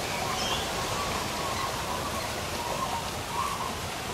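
Birds in an aviary calling faintly, short chirps coming every second or so, over a steady outdoor hiss.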